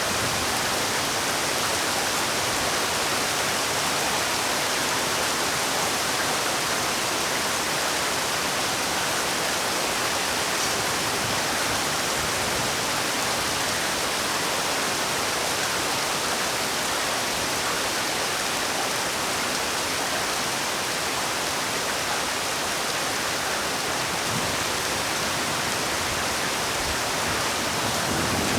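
Heavy rain falling, a dense, steady hiss that holds at one level throughout.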